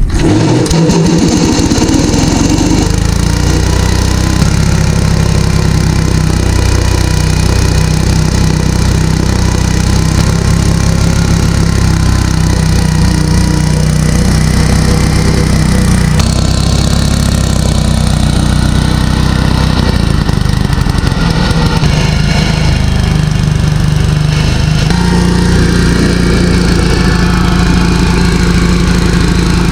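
Gravely garden tractor engine catching right at the start and running steadily and fast, its pitch shifting a few times. It has no working governor, so it runs near wide open on the throttle cable alone.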